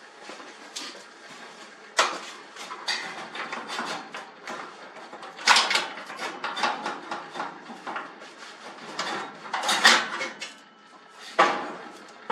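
Garage door top roller and its hinge bracket being worked out of the steel track by hand: irregular metal clanks, rattles and scrapes, with four louder knocks spread through.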